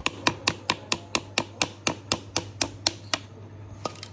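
A rapid, even series of sharp taps, about four a second, that stops a little past three seconds in, followed by one more tap near the end, over a steady low hum.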